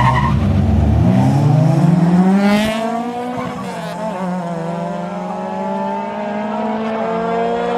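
Street-racing cars launching and accelerating hard away, engine pitch climbing, dropping once at a gear shift about three seconds in, then climbing slowly again as they pull away.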